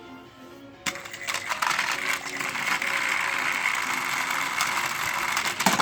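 Motorized toy train engines running on the track after the start: a click about a second in, then a steady rattling whir with many small clicks that stops just before the end.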